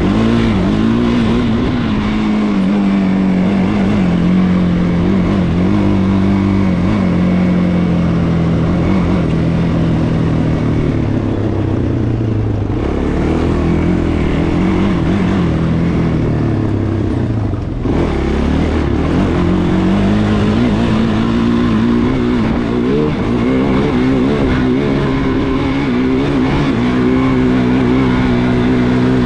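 Off-road vehicle engine running continuously while being ridden. Its pitch slowly falls over the first dozen seconds, stays low and rougher until about eighteen seconds in, then climbs and holds a steady higher pitch.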